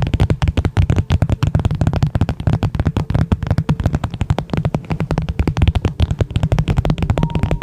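A rapid, dense run of sharp clicks and crackles, many a second and uneven, over a heavy low rumble.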